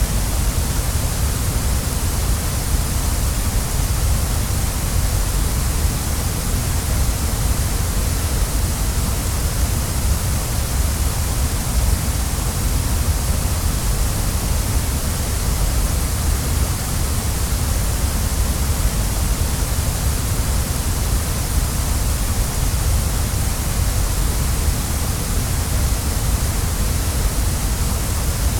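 Waterfall: a steady, unbroken rush of falling water, deep and hissing at once, with no change in level.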